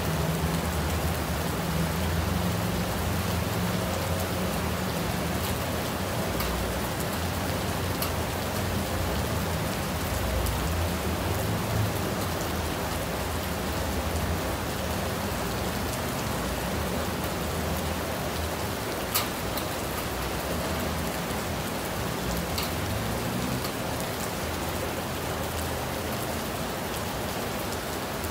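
Steady rain falling: a dense, even hiss with scattered sharp drop ticks, one louder tick about two-thirds of the way through, over a low rumble underneath.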